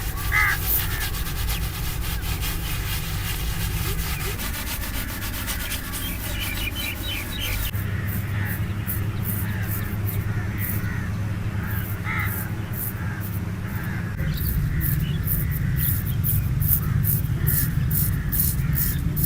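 Razor scraping over chest hair and skin in short repeated strokes, which become distinct and even, about two a second, from roughly eight seconds in. A steady low hum runs underneath.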